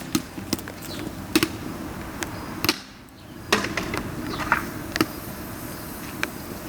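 Dry bamboo burning in a bonfire, crackling with sharp, irregular pops over a steady hiss.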